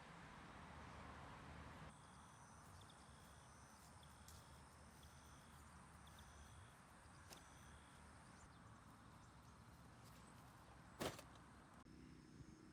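Faint outdoor ambience with insects calling in thin, steady high-pitched trills that start about two seconds in. One sharp click comes near the end.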